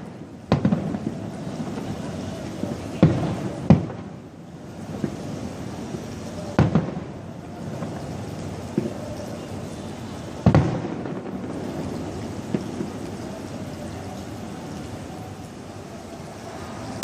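Aerial fireworks bursting: about five sharp bangs, each trailing off in a rumbling echo, spaced a few seconds apart and stopping after about ten seconds, over a steady background hiss.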